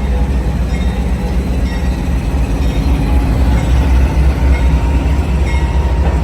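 Amtrak passenger train, headed by three diesel locomotives, rolling past close by, a steady heavy low rumble.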